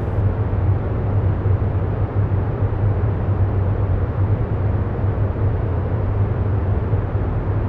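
Steady, unchanging ambient noise bed: a low rumble with a hum around 100 Hz and a soft hiss above it.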